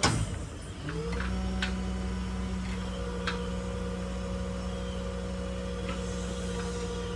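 The truck's PTO-driven hydraulic crane system starts up: a pitched hum rises about a second in, then holds steady as the crane runs. A few light clicks and clanks sound over it.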